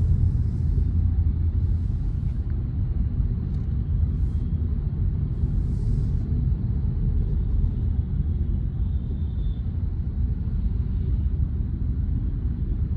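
Car cruising, heard inside the cabin: a steady low rumble of engine and tyre road noise, with a few brief hisses in the first half.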